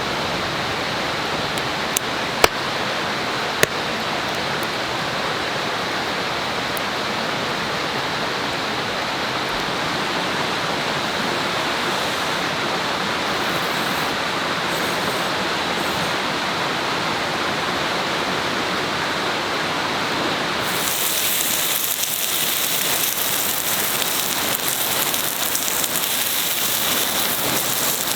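Steady rushing water, with a few sharp clicks in the first few seconds. About 20 seconds in the sound switches abruptly to a brighter, hissier water noise.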